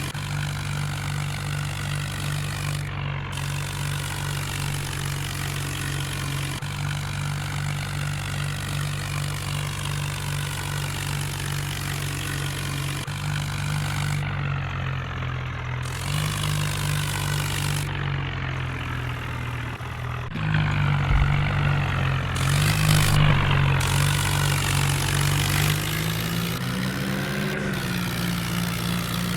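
Tractor diesel engines running steadily under load, with the engine pitch rising and falling in the last third.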